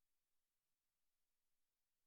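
Near silence: only faint recording hiss.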